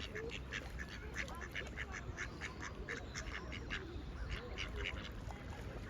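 Birds calling in a quick series of short calls, several a second, over a steady low rumble.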